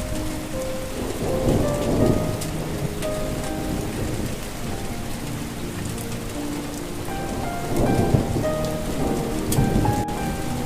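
Steady rain falling, with a soft melody of short held notes over it. Thunder rumbles twice, about a second in and again about eight seconds in.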